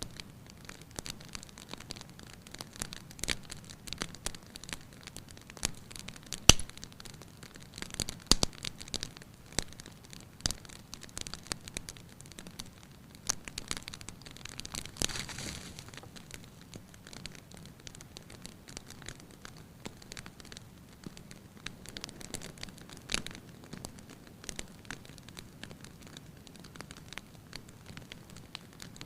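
Wood fire crackling in a fireplace: irregular pops and snaps over a soft steady hiss, with one sharp loud pop about six and a half seconds in and a brief rush of noise about fifteen seconds in.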